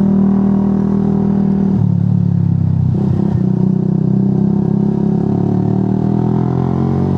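Motorcycle engine running while riding. The engine note changes abruptly about two seconds in, and there is a brief stutter about a second later.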